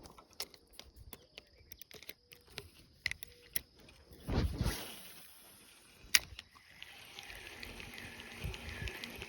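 Scattered small clicks and brush rustling as an angler shifts and handles his gear in dense bushes at the water's edge, with a louder rustle about four and a half seconds in and a sharp click just after six seconds. From about seven seconds a faint high chirping repeats steadily.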